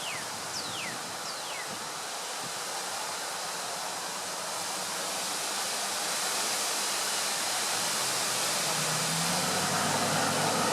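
Gusty wind rushing through trees, a steady rush that builds toward the end. A bird gives a few quick falling chirps in the first two seconds, and a faint low hum comes in near the end.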